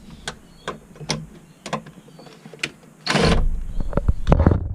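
Plastic demister duct being worked into place under a car's dashboard: a series of light clicks and knocks, then about three seconds in a loud scrape followed by a heavy low rumble of handling.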